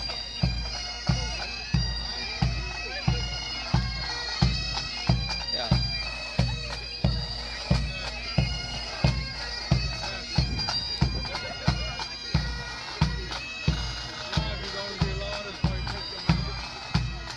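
Pipe band marching: bagpipes playing a tune over their drones, with a bass drum beating steadily at about two strokes a second.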